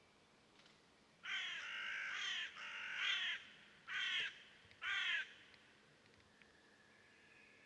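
A crow cawing four times in about four seconds. The first two calls are longer and almost run together; the last two are shorter and spaced about a second apart.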